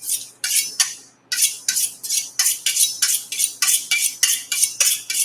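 Chef knife blade swiped rapidly along a steel honing rod, quick alternating metal-on-metal strokes, about three to four a second, with a brief pause about a second in.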